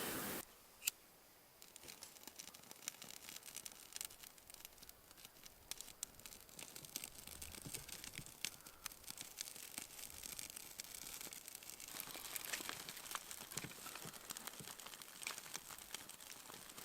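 Faint crinkling and rustling of food packaging and gear being handled, with many small scattered clicks and taps.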